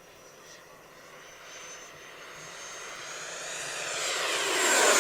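An FMS F-18F RC jet's 70 mm electric ducted fan whining as it makes a fast pass, growing louder as it approaches and peaking near the end, where its high whine begins to drop in pitch as it goes by.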